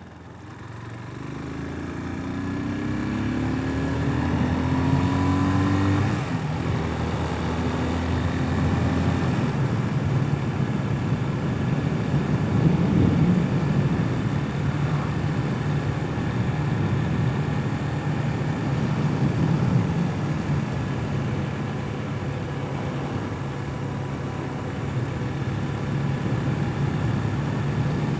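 Hawk 250 enduro motorcycle engine accelerating, its pitch rising in steps as it goes up through the gears over the first six seconds or so, then running steadily at cruising speed. Heavy wind noise on the microphone covers it.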